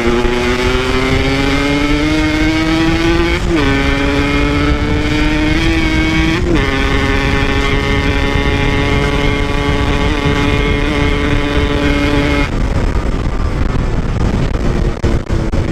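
Two-stroke motorcycle engine pulling hard under way, its pitch climbing steadily and dropping sharply at two gear changes, then holding a steady note until it cuts off suddenly near the end, with wind rushing on the microphone. The rider finds the engine running too wet to take full throttle.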